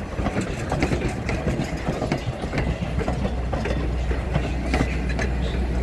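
Passenger coaches rolling past: steel wheels clicking and clattering on the rails over a steady low rumble.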